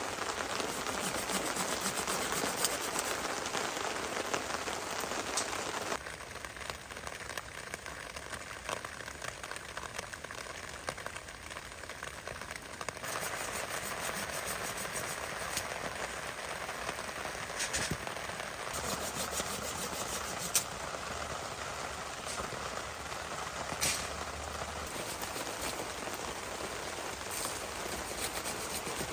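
Heavy rain falling steadily, with a few sharp drip-like clicks standing out.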